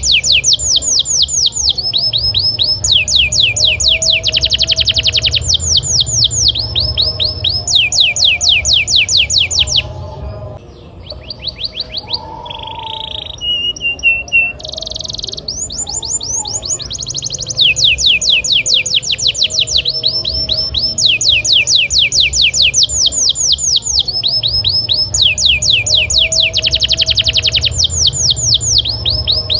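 Domestic canary singing long, rapid trills of fast, evenly repeated falling notes. About ten seconds in the trills give way to softer, varied notes for a few seconds before the rolls resume.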